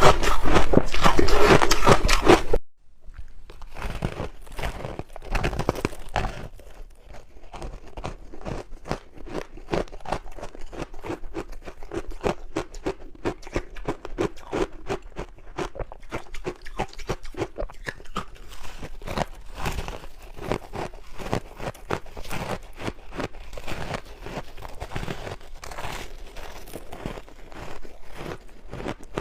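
Close-miked crunching of ice dusted with matcha powder, bitten and chewed. A loud, dense crunch fills the first two and a half seconds and stops abruptly, followed by a long run of quieter, rapid crackly chewing.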